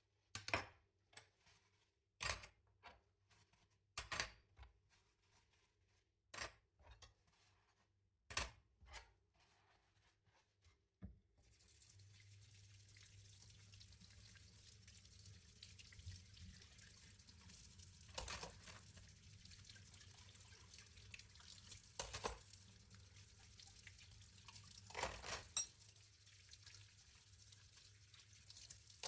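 Dishes clinking and knocking as they are handled at a kitchen sink, a dozen or so separate sharp clinks; then, about a third of the way through, the tap is turned on and water runs steadily into the sink, with a few more clinks of dishes under the stream.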